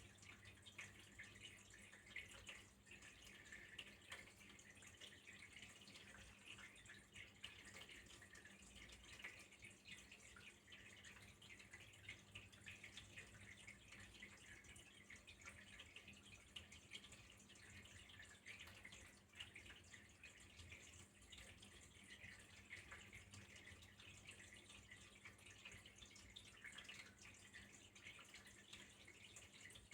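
Faint, steady trickle of flowing water with many small rapid drips and splashes, over a low steady hum.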